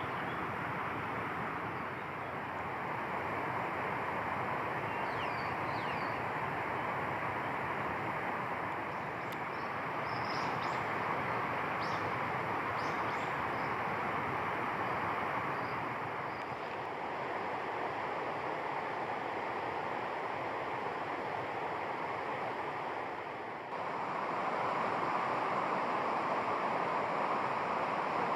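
Steady outdoor rushing noise with faint, brief high bird chirps now and then. About three-quarters of the way through, the rushing noise changes suddenly and becomes a little louder.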